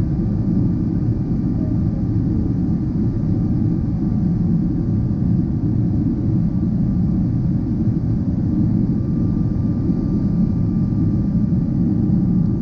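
Steady low rumble of a Boeing 777-300ER's GE90 jet engines, heard from a distance, with faint steady whining tones above it.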